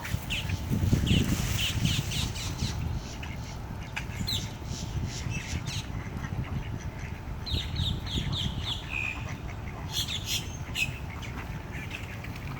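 Birds calling in short, high, quick chirps, some in rapid runs of four or five, the busiest run about two thirds of the way through, over a steady low rumble.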